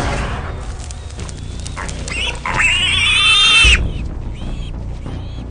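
Warthog squealing: a short squeal about two seconds in, then a loud, high, wavering squeal that cuts off abruptly a little over a second later.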